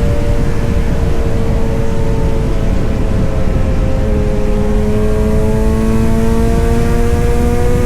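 Kawasaki Z900 inline-four engine and exhaust running at steady revs over a dense low rumble, the pitch sagging slightly and then climbing gently in the second half.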